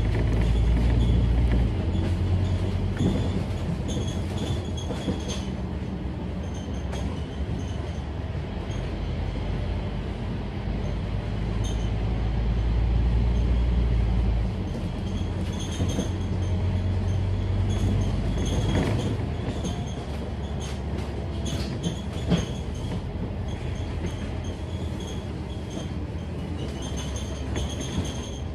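Inside a Scania K310UD double-decker bus on the move: the diesel engine and drivetrain running with a deep rumble, the engine note shifting a few times, with clicks and rattles from the body and a sharp knock about two-thirds of the way through.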